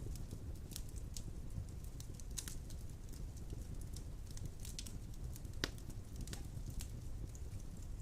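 Wood fire of large logs burning in a stone fireplace: a steady low rumble with scattered sharp crackles and pops, one louder pop about five and a half seconds in.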